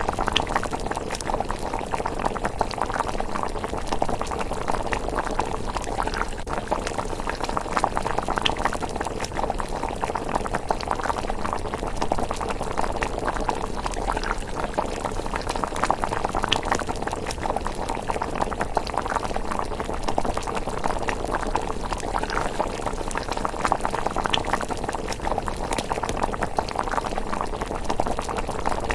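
Thick miso rice porridge bubbling steadily in a pot, a continuous run of many small bubble pops.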